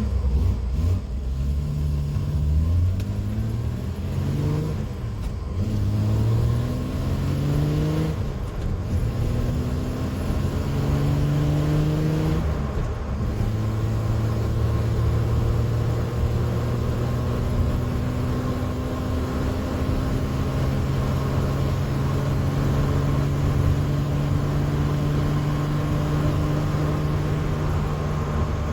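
Ford Essex 3.0 V6 engine of a TVR Taimar accelerating through the gears of its four-speed manual gearbox: the pitch climbs and drops back at each of several quick gear changes, then climbs slowly and steadily through a long pull in a higher gear.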